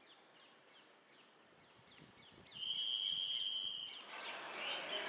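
Faint outdoor ambience of small birds chirping in short, quick, falling notes. About two and a half seconds in, a steady high whistle-like tone holds for over a second while the general background noise rises.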